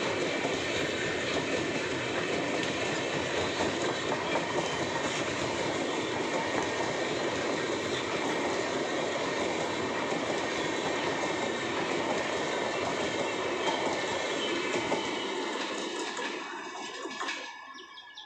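A passenger train's coaches rolling past at speed, wheels clattering steadily over the rail joints. The sound dies away over the last couple of seconds as the last coach passes and draws off.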